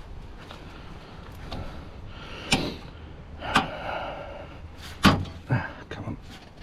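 Plastic trim clips being prised off and handled on a Citroen DS3's engine bay trim: a handful of sharp clicks and knocks, the loudest about five seconds in.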